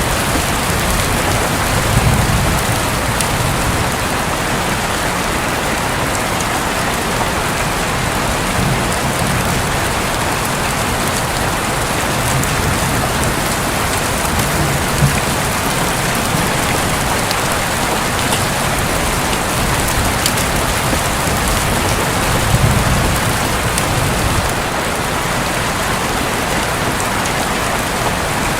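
Steady heavy rain drumming on a roof, with a few low, distant rumbles of thunder swelling briefly under it.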